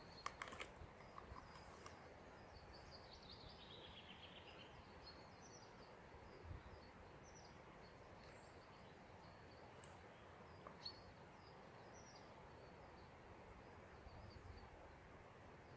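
Near silence with faint, scattered small-bird chirps and a short falling trill about three seconds in.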